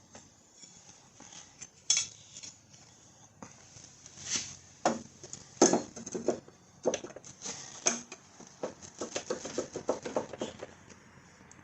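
Small metal parts clinking and clanking as a lawnmower blade, washers and nut are handled and fitted onto a mower deck spindle, in irregular knocks with a quick run of light clicks near the end.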